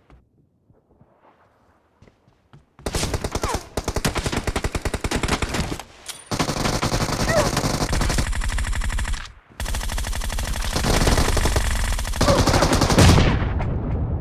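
Video game automatic gunfire: rapid, sustained machine-gun fire that starts about three seconds in and runs in three long bursts separated by two brief breaks, trailing off near the end.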